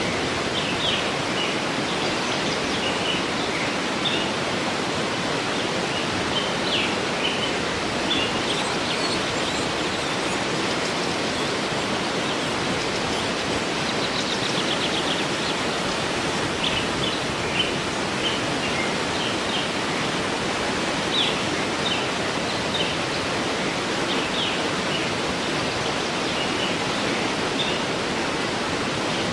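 Waterfall rushing steadily, with birds chirping in short high calls throughout and a brief rapid trill about halfway through.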